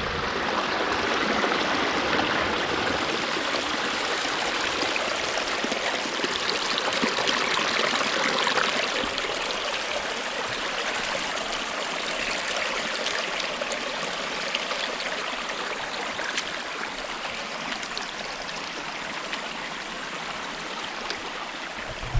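A stream running over rocks: a steady, even water noise, easing slightly in the second half.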